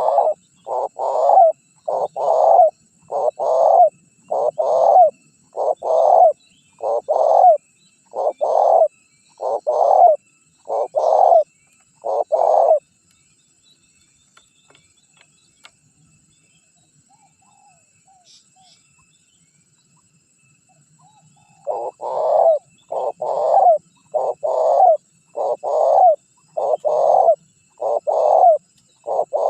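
Spotted dove (tekukur) cooing: a run of about a dozen low coo notes, roughly one a second, a pause of about eight seconds, then another run of coos.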